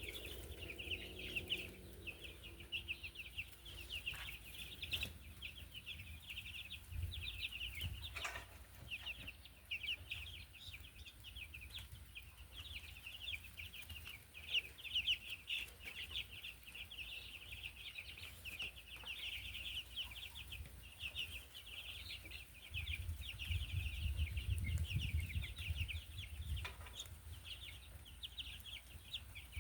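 A flock of 8-day-old meat chicks peeping constantly, a dense chorus of short high chirps, with a low rumble for a few seconds in the second half.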